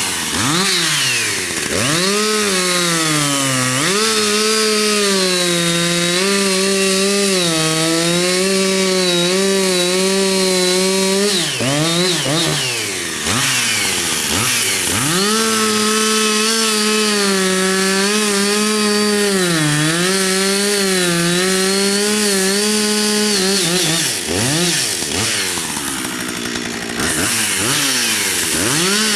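Chainsaw engine running at high revs, its pitch sagging and recovering over and over as under cutting load. The revs drop back briefly about twelve seconds in and again near the end.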